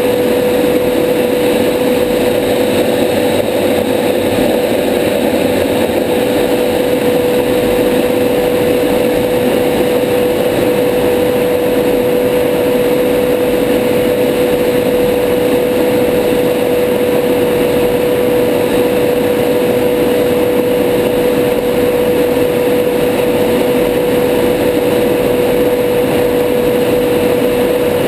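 Steady cockpit noise of a Tornado GR4 jet in low-level flight: a constant rushing roar with one steady tone running over it.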